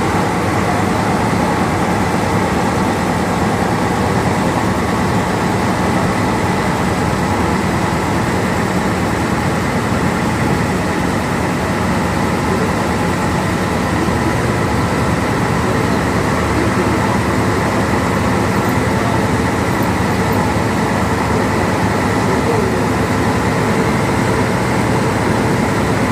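Steady, unbroken engine drone with a constant hum.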